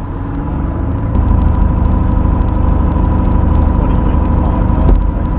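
Van's RV-10 light aircraft's piston engine running steadily after touchdown, heard from inside the cockpit; it grows louder about a second in.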